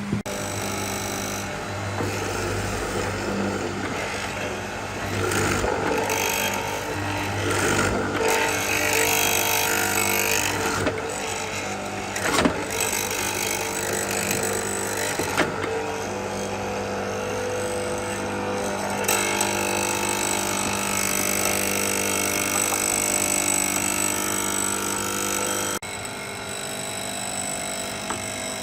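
Electric power tools running steadily in a woodworking shop, with a few sharp knocks; the sound changes abruptly twice, as between edited shots.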